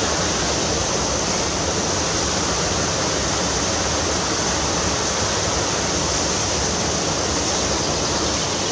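Steady rushing water of a fast-flowing stream or river.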